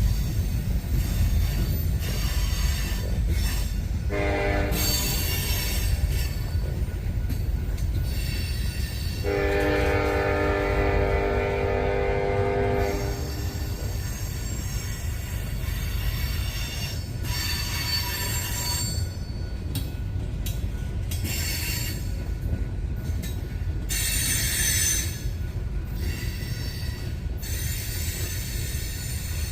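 Loaded coal train rolling past with a steady low rumble. A diesel locomotive horn sounds for about four seconds near the middle, after a shorter note about four seconds in. High-pitched wheel squeal comes and goes.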